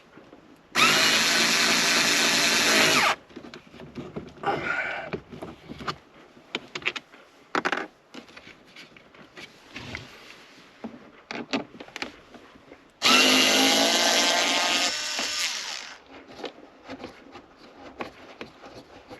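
A small electric screwdriver runs in two bursts of a couple of seconds each, its motor whining up to speed as it backs out small screws from the dashboard panel of a Mercedes W201. Between the bursts there are small clicks and handling sounds.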